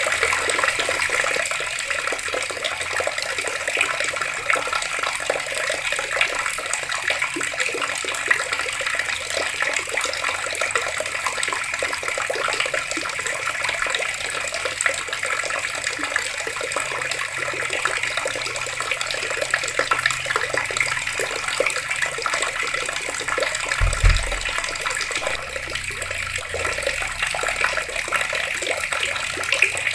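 Water pouring steadily from taps and splashing, an even rush without a break. Most of the way through there is one brief low thump.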